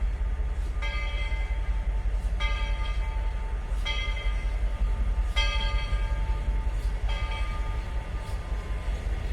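Locomotive bell ringing steadily, five strokes about one and a half seconds apart, each ringing on for about a second, over a steady low rumble.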